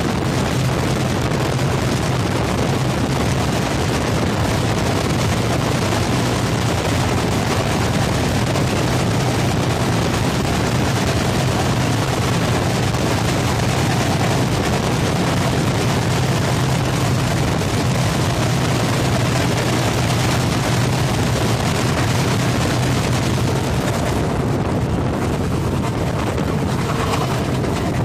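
Passenger train running through a tunnel: a loud, steady rush of wheels on rail and moving air, heard at the open coach doorway. The noise thins a little in the last few seconds as the train nears the tunnel mouth.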